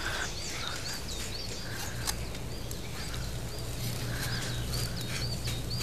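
Birds chirping: many short, high chirps in quick succession, with softer lower calls among them, over a low steady hum.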